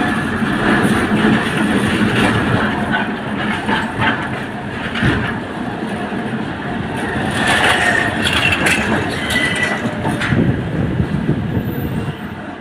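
A tram running along its line, its wheels rumbling and clattering over the rails. About three-quarters of the way through there are brief high wheel squeals.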